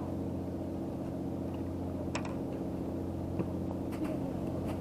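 An engine running steadily at idle, a low, even hum, with a couple of faint ticks about two and three and a half seconds in.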